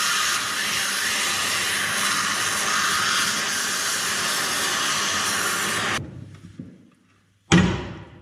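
Cutting torch hissing steadily while it melts the head off a seized excavator roller bolt, stopping abruptly about six seconds in. Near the end comes one loud, sharp metal impact that dies away, a hammer blow to knock the bolt out.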